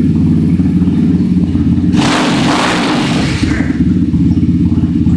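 Dirt bike engine running with a steady low rumble. About two seconds in, a rushing hiss rises over it for about a second and a half.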